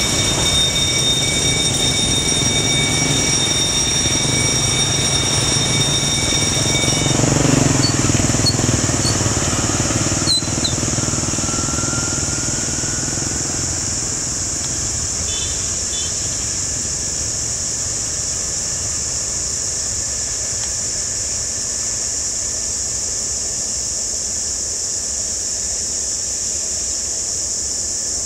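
Diesel-hauled freight train rumbling past with a steady high-pitched squeal. The squeal's ringing tones stop about seven seconds in, and the rumble dies away by about thirteen seconds, leaving a steady high hiss.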